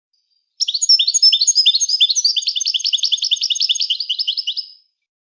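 European goldfinch singing one song phrase of rapid, high, repeated notes, about four seconds long, starting about half a second in.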